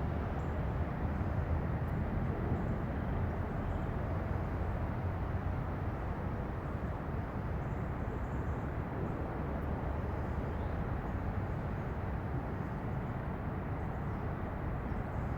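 Steady low rumble of distant road traffic, a constant hum with no distinct events.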